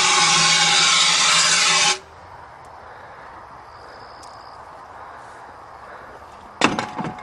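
Fire extinguisher discharging in one loud continuous hiss that cuts off suddenly about two seconds in as it runs empty. A couple of sharp knocks come near the end.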